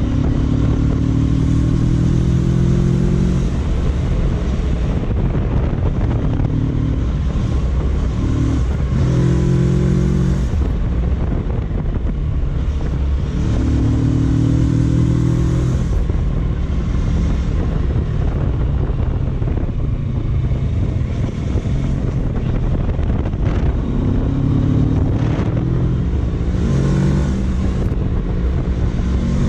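Kawasaki Versys 650's parallel-twin engine running under way. Its pitch climbs and falls back several times as the bike accelerates, over steady wind rumble on the microphone.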